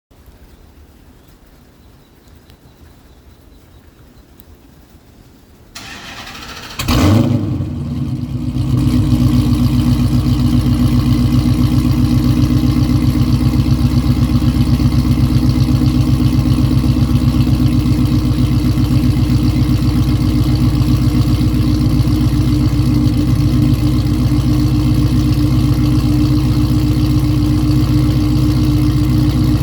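Cold start of a 2009 Dodge Challenger R/T's cammed 5.7-litre Hemi V8 with long-tube headers and a straight-piped exhaust: about six seconds in the starter cranks briefly, the engine catches with a loud flare about a second later, and from about nine seconds in it runs at a steady, loud idle.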